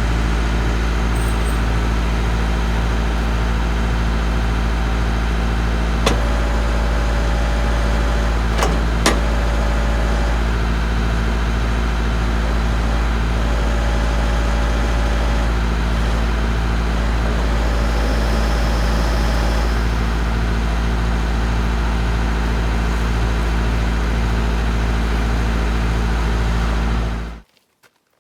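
Tractor engine running steadily, driving the hydraulics of a trailer-mounted forestry crane used as a bead breaker. A steady whine comes in three times, each for about two seconds, as the hydraulics push, with a couple of sharp clicks. The hydraulics lack the power to break the tyre bead. The sound cuts off abruptly near the end.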